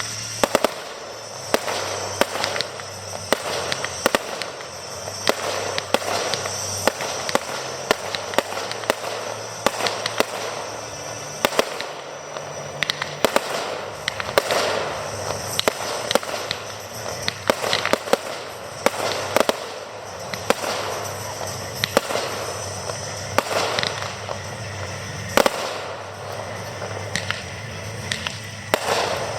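Aerial fireworks display: a dense, irregular run of sharp shell bursts over continuous crackling, with many loud bangs in quick succession.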